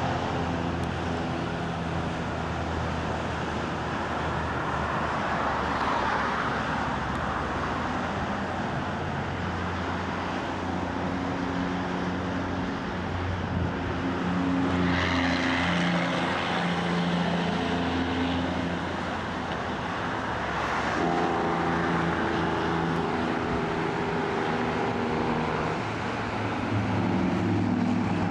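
Freeway traffic passing below: steady tyre and road noise with the engines of passing vehicles, heavier engine tones standing out about halfway through and again in the last few seconds.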